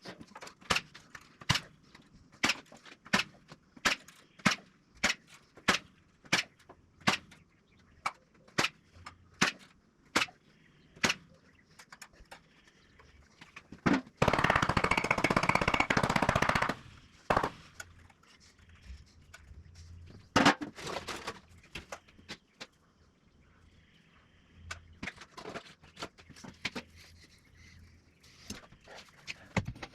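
Building work on a wooden frame: a steady run of sharp strikes, about one and a half a second, like nails being hammered in. About halfway through comes a loud burst of tool noise lasting a couple of seconds, then a few more strikes and faint scattered clicks.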